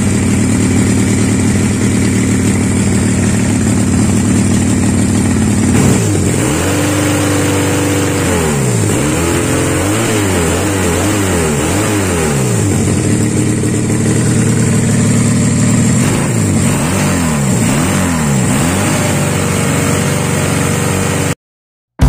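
Honda Supra motorbike with a custom two-cylinder engine, idling steadily and then revved up and down in repeated blips from about six seconds in, and again near the end. The sound cuts off suddenly just before the end.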